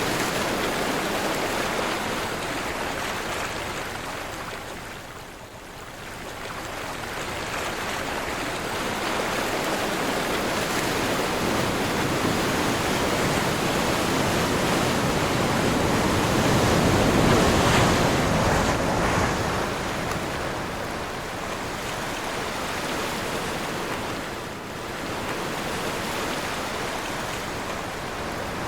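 Sea waves breaking and washing ashore in wind, a continuous rushing surf that swells and ebbs. It dips briefly twice and is at its loudest about two-thirds of the way through.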